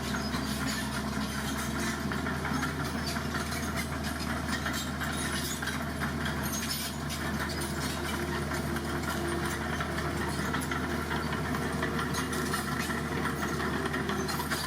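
Dump truck engine running steadily at idle, a low even engine sound with a light rattle.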